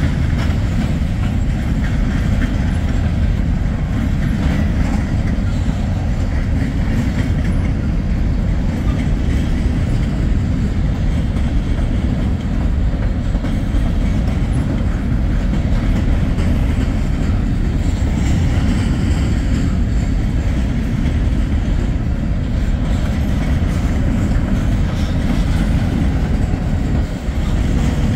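Freight train cars rolling past with a steady low rumble, their wheels clicking over the rail joints.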